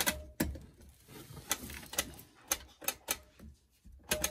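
Washing machine controls being set: a string of about nine sharp, irregular clicks, with a faint brief tone at the start and again near the end.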